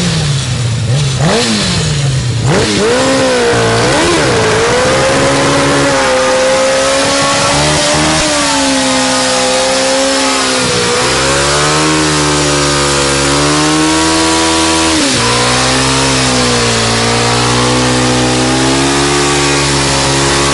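Motorcycle engine being revved hard while standing: quick blips in the first few seconds, then held near high revs with a slight waver, falling sharply about fifteen seconds in and climbing straight back up.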